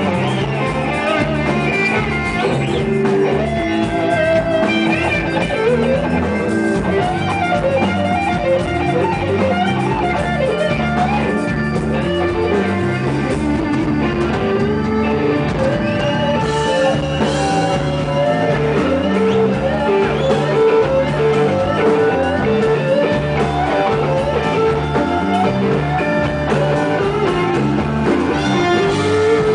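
Blues-rock band playing live without vocals: a lead guitar plays bending, sliding lines over bass and drums.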